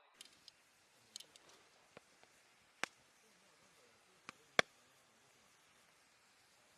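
Campfire crackling: scattered sharp pops and snaps, the loudest a little under 3 seconds in and again about four and a half seconds in.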